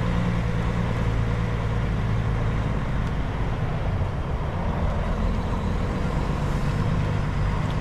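Heavy goods vehicle's diesel engine running steadily at low revs, a constant low drone.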